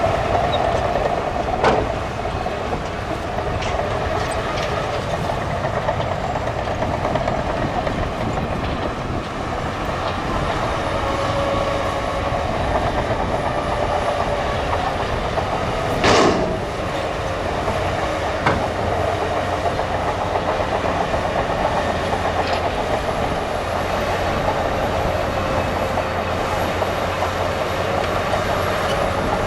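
Bulldozer working, its diesel engine running steadily under load with a continuous whine and scattered sharp metal clanks from the crawler tracks, the loudest about halfway through.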